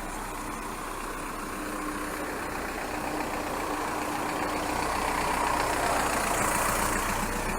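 A car's engine running steadily with a low hum, growing gradually louder through the second half.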